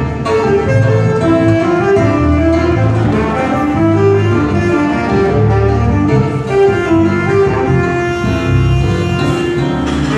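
Tenor saxophone playing a melody over acoustic guitar and bass, one note at a time above sustained bass notes.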